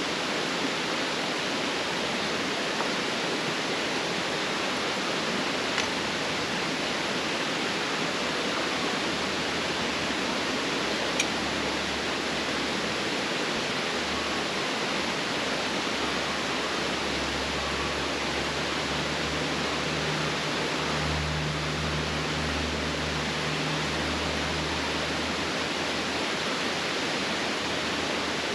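Steady, even rushing noise, like running water or wind, with a faint low hum rising in the middle and a small click about a third of the way in.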